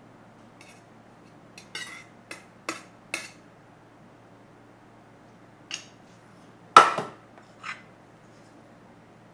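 Kitchenware clinking and knocking: a quick run of sharp clinks about two seconds in, then a few more strikes, the loudest a single ringing clink near the end.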